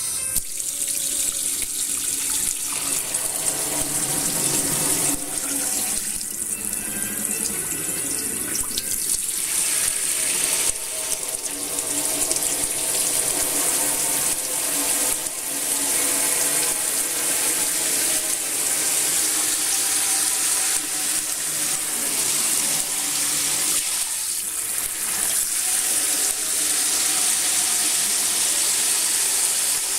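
Running water, splashing steadily like a tap running into a sink.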